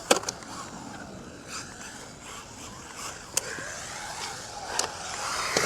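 Small 1:14 scale RC rally car driving on concrete: its brushless electric motor whines up and down over the scrape of its tyres. Several sharp knocks come through, the loudest right at the start.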